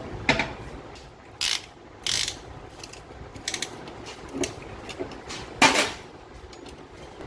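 Metal hand tools and engine parts clicking and rattling on a workbench: about six short, separate clattering strokes, the loudest near the end.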